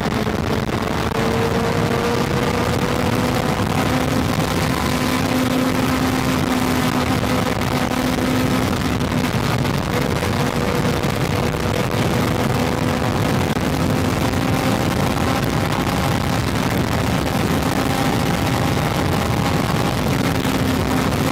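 Honda CB400 motorcycle engine running steadily at highway cruising speed, its pitch creeping up slightly and easing back about halfway through, under heavy wind and road noise.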